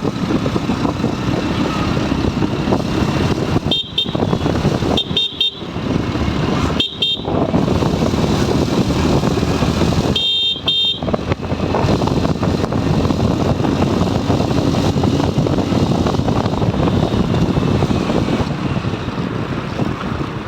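Motorcycle riding along a road, with a steady rush of wind and engine noise. A horn beeps in short toots four times in the first half.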